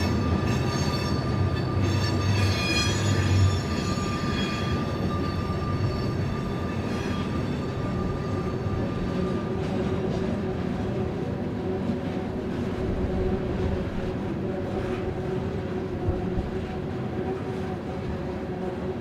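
Loaded coal hopper cars rolling slowly uphill across a steel trestle: a steady rumble of wheels on rail. High-pitched wheel squeal dies away over the first five seconds or so, with one thin whine lasting to about halfway.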